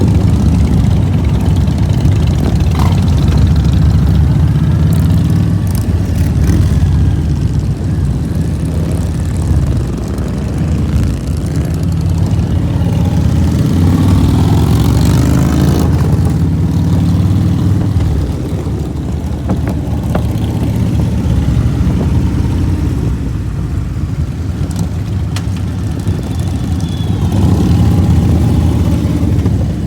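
Motorcycle engine running steadily, with a brief louder swell about halfway through.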